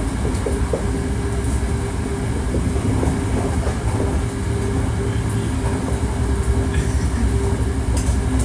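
Hankyu 1300 series electric train car, heard from inside the car while running between stations: a steady low rumble of wheels on rail with a steady motor whine on top and a few light clicks from the track. The car is known for an unusual drive noise.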